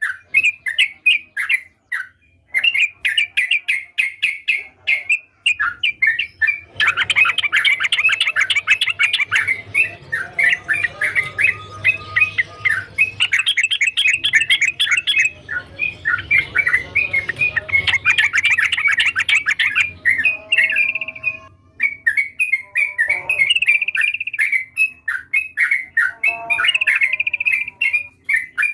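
Yellow-vented bulbul singing continuously in quick, chattering phrases of short repeated notes. The song grows denser through the middle, with a faint low hum beneath it.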